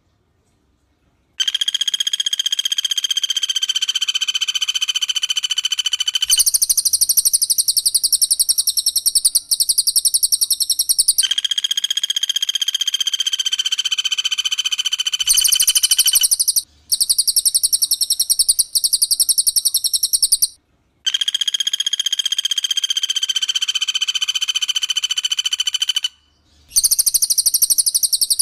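Recorded songs of a cililin and a pelatuk bawang in tight rapid-fire bursts that take turns every few seconds. One is a fast pulsed trill on steady, lower-pitched notes. The other is a shriller, higher trill. The song starts a little over a second in.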